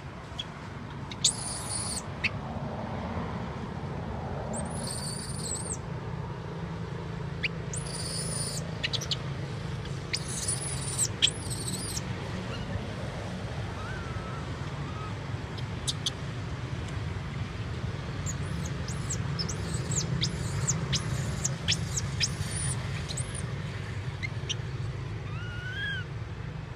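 Small birds chirping in short, very high-pitched calls, in scattered clusters and then a quicker run of chirps, over a steady low background hum.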